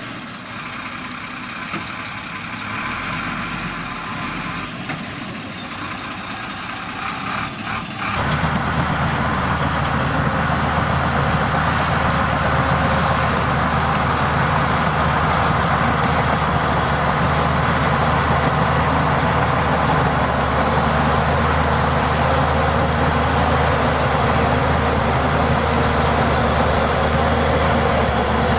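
Heavy diesel engine of earthmoving machinery running steadily. It is quieter at first, then becomes abruptly louder and closer about eight seconds in and holds steady.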